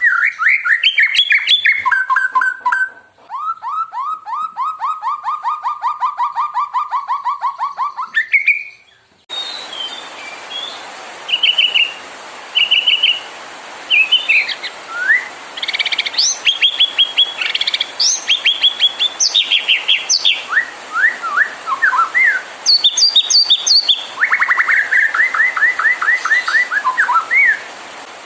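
White-rumped shama (murai batu) song: loud whistled phrases and a long fast run of repeated notes, then, after an abrupt cut about nine seconds in, a hissier recording of varied short whistles and trills. This is lure song, played to provoke a captive shama into singing.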